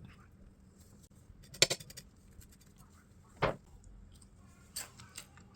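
Kitchenware being handled: a sharp clatter about one and a half seconds in, a single knock about two seconds later, and two lighter clicks near the end.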